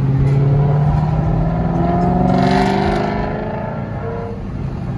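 A car engine accelerating, its pitch rising gradually. It is loudest about two and a half seconds in, then eases off.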